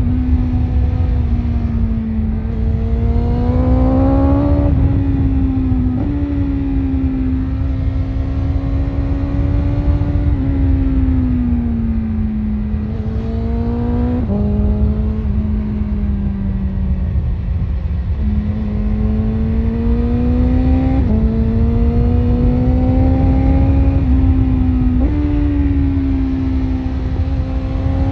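BMW S1000RR's inline-four engine through an Akrapovic exhaust, running under way. Its pitch climbs and eases off repeatedly, with several sudden steps at gear changes, over a steady low rush of wind noise.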